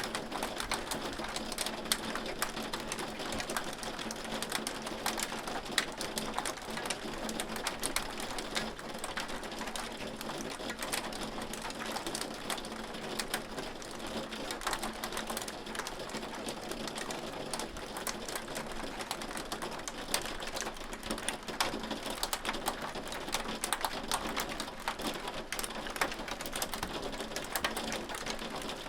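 Hail falling: a dense, steady rattle of hailstones striking, sharp irregular clicks over a rain-like hiss.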